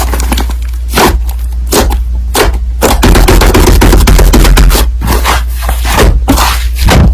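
Slime being squished and stretched by hand, a dense run of loud crackling clicks and pops as air pockets burst.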